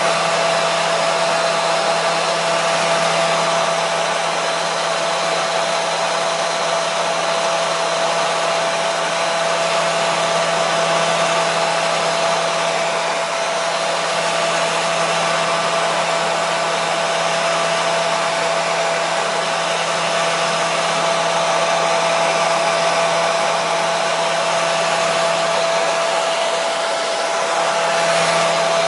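Hair dryer running steadily: a constant rush of air with a steady motor tone underneath.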